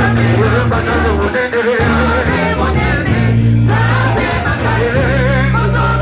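Live gospel worship music: a band with a heavy, steady bass line and a singer with backing voices singing a praise song.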